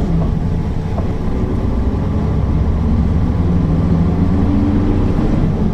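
Mercedes-Benz O408 bus's diesel engine running, a steady low drone whose pitch drifts slightly.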